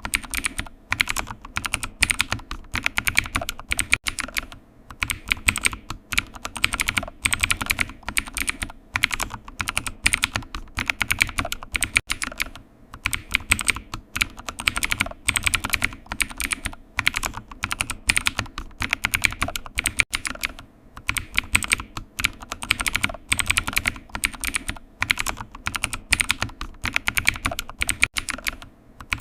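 Computer keyboard typing: a fast, irregular stream of key clicks with short pauses between bursts.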